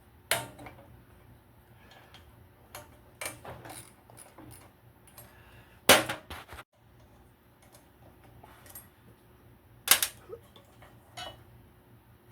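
Irregular metallic clicks and knocks of hand tools and engine parts as a small generator engine's ignition coil is being taken off, with two sharper knocks about six and ten seconds in.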